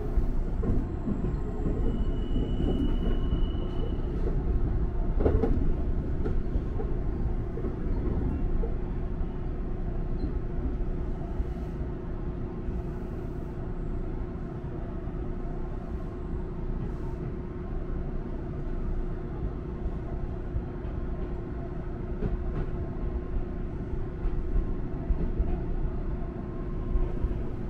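Electric train running along the track, heard from inside the front car: a steady rumble of wheels on rail with a constant hum. There is a short high tone about two seconds in and a single knock about five seconds in.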